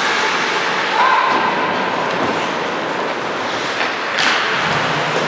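Basketball game noise in an echoing gym: a steady din with ball thuds, a short squeak about a second in and a sharp knock a little after four seconds.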